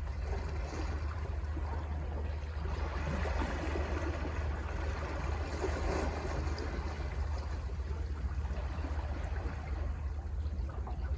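Sea waves washing in and out over a steady low rumble, with one surge building about three seconds in and easing off after about seven.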